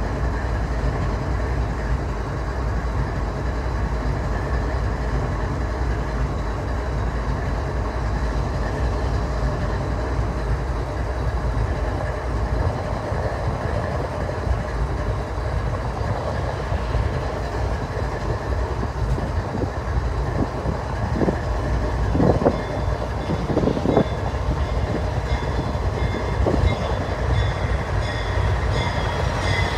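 Metra commuter train with its diesel locomotive approaching on the tracks: a steady low rumble that grows somewhat louder in the last several seconds as the train draws near.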